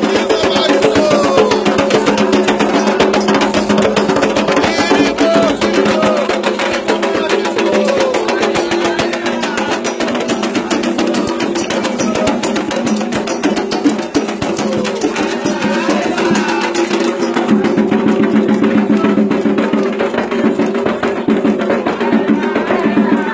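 Candomblé ritual drumming: atabaque hand drums and a time-keeping percussion pattern played in a fast, steady rhythm, with a group singing a chant over it.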